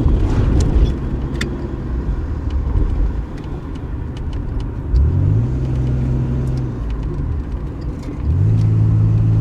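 Car engine running while driving, heard from inside the car. Its pitch rises quickly about five seconds in and again about eight seconds in, then holds steady as the car gathers speed. A few knocks come in the first second or two.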